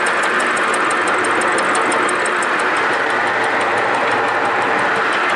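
Milling machine running under cut, its cutter head machining a metal workpiece: a steady grinding noise with a fast, regular ticking.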